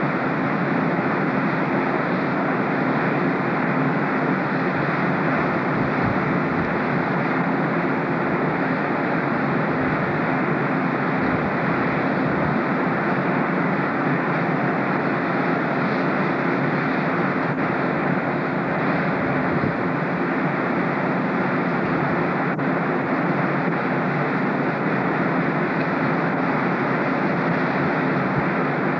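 Steady rumble with a constant hum from a standing passenger train, unchanging throughout.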